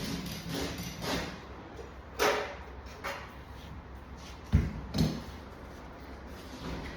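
A few scattered knocks and thumps over a low steady hum, the loudest thump about four and a half seconds in.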